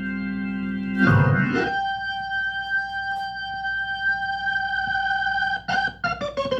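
Soul-funk organ solo, with a Hammond-style organ sound: a held chord, a smeared sweep about a second in, a long held note, then a quick run of short notes near the end.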